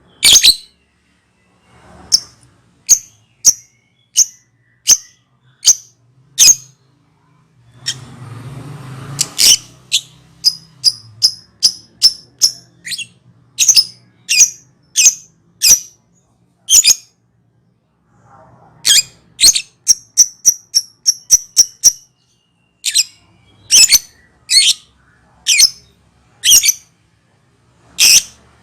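Lovebird calling in a long 'ngekek' bout: shrill, high, clipped chirps, some spaced singly and some in quick runs of about three to four a second, over a faint low hum.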